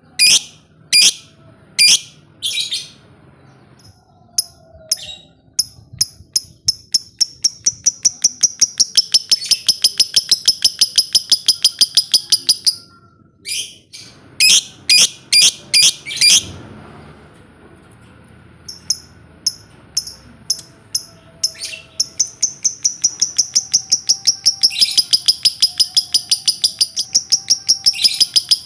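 Lovebird in 'ngekek': long runs of rapid, evenly repeated shrill chirps. The runs break off briefly twice around the middle, then carry on as one long unbroken run to the end.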